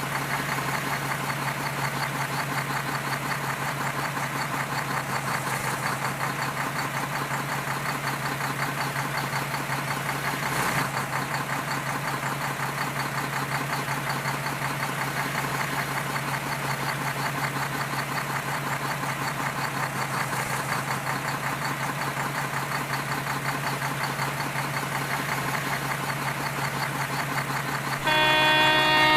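A heavy truck's engine idling steadily. Near the end a string of clear pitched tones, like a musical horn, begins.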